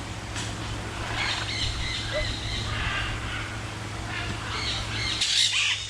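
Birds calling at intervals, with louder squawks starting about five seconds in, over a low steady hum.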